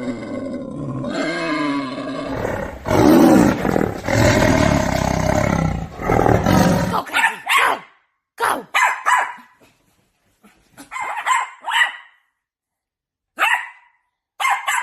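An animal growling in long, continuous calls for about seven seconds, then a string of short, sharp barking calls in quick groups.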